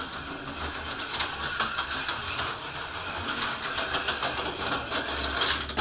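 HO-scale slot car running laps on a plastic track: a small electric motor buzzing with rapid clicking and rattling as the car rides over the rails and track joints.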